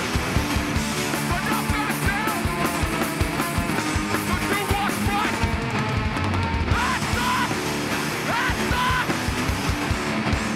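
Live hardcore band playing at full volume: distorted electric guitars over fast, pounding drums.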